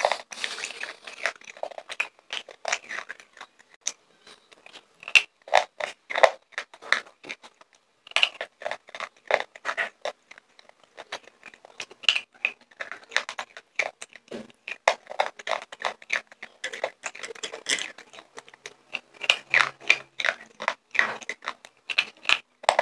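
Slate pencil being bitten and chewed right at a clip-on microphone: runs of sharp, dry crunches and crackles, with two short pauses between mouthfuls.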